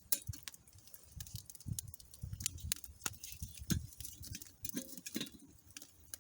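Wood campfire of sticks leaned against a back log crackling, with irregular sharp snaps and a few duller low thuds.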